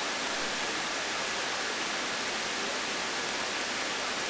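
Steady, even hiss of a light aircraft's radio and intercom audio feed, with a faint high steady tone in it.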